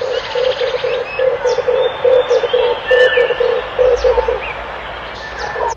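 Red turtle dove cooing: a rapid run of low coos, about three a second, that stops about four seconds in, with small birds chirping thinly over it. The recording cuts off suddenly near the end.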